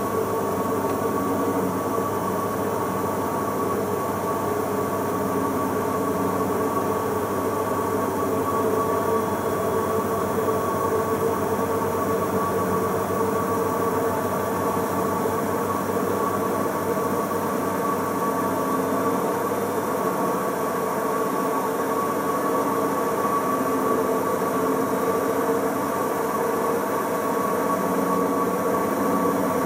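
Bosch Logixx washing machine on its interim spin at up to 1000 rpm, the drum turning at a constant high speed with a steady motor whine.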